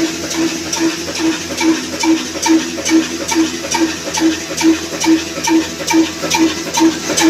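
Old Ruston Hornsby diesel oil engine running at a steady speed, with an even, slow beat of a little over two firing pulses a second.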